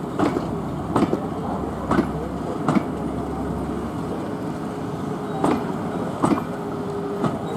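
A train rolling slowly along the track, its wheels clicking over the rail joints every second or so above a steady rumble.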